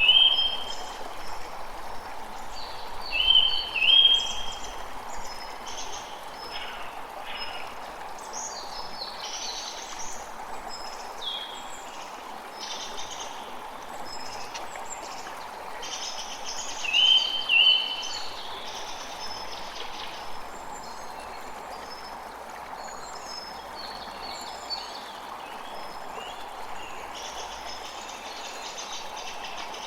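Many small birds chirping and calling over the steady rush of running water. A louder two-part call rises in two steps, once at the start, again about four seconds in and again a little past halfway.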